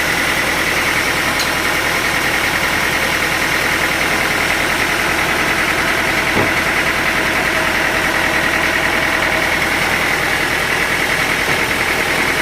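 Sawmill machinery engine running steadily at idle, a constant mechanical drone that does not change in pitch or level.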